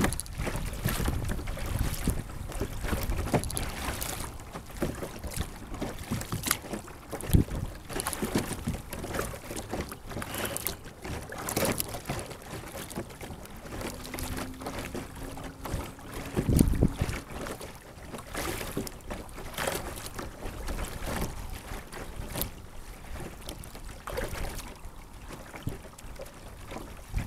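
Sit-on-top kayak being paddled: irregular paddle splashes and drips in the water, with wind buffeting the microphone. There is a louder thump about sixteen seconds in.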